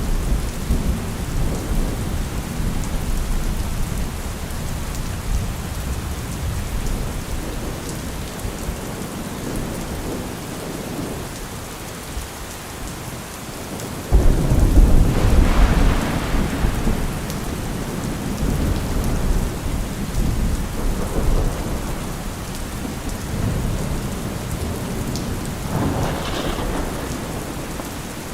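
Steady rain with rolling thunder. About halfway through a sudden loud thunderclap breaks in and its rumble rolls on for several seconds; another, lighter clap and rumble comes near the end.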